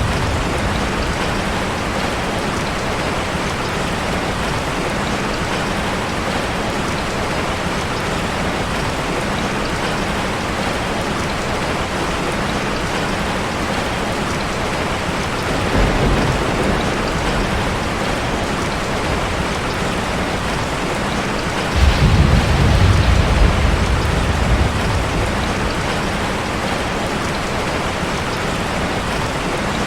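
Heavy rain falling steadily on a car, with low rolls of thunder: a short one about halfway through and a longer, louder one about three quarters of the way in.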